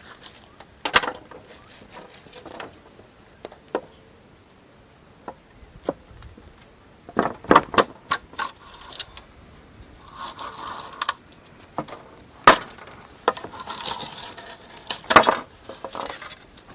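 Scattered knocks, clicks and clinks of wood and small hard objects being handled, with two short spells of rustling.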